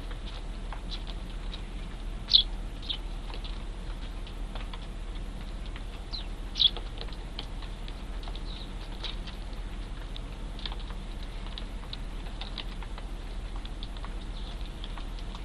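Young Eurasian tree sparrows chirping: short, high chirps scattered throughout, two of them clearly louder, about two and a half and about seven seconds in.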